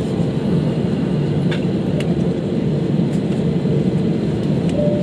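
Steady low rumble inside a jet airliner's cabin, with the engines running before takeoff, and a few faint clicks.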